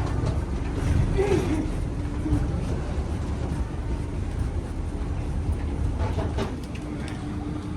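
Airbus A380 cabin ambience: a steady low rumble with a faint constant hum, a few scattered clicks and faint voices in the background.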